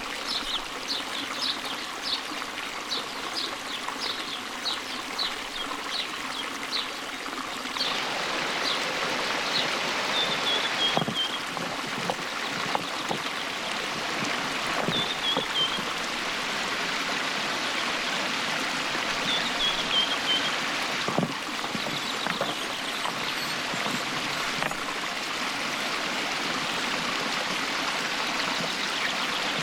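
A stream running over rocks, its rush growing louder about eight seconds in. Over it a bird sings: a run of short high chirps, about two a second, then a few short falling phrases. A couple of sharp knocks come later on.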